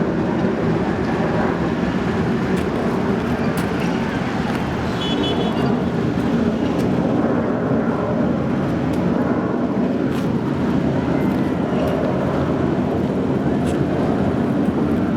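Jet engines of the Boeing 747 carrying the Space Shuttle, heard as a steady low rumble overhead. It holds level without a clear rise or fall.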